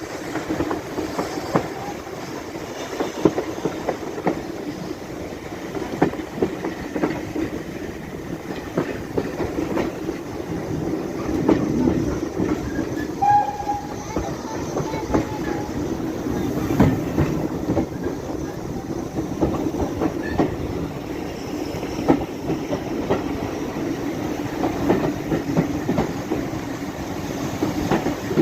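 Heritage railway train running along the track: a steady rumble with irregular clicks of the wheels going over rail joints.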